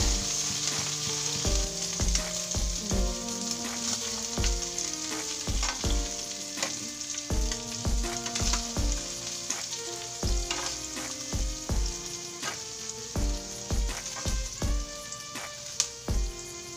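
Chicken livers sizzling in hot oil in a frying pan, stirred and scooped out with a spoon; the sizzle fades toward the end. Background music with a steady beat plays over it.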